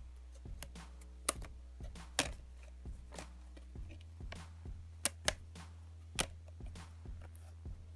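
Irregular light clicks and taps, a few of them sharper, from small plastic tablet parts and tools being handled, over a steady low hum.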